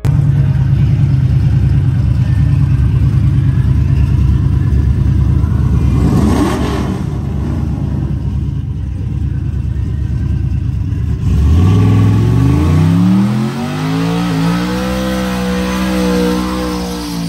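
A vehicle engine with a deep rumble. About two-thirds of the way in, it revs up in one smooth climb, holds at high revs for a couple of seconds, then drops back near the end.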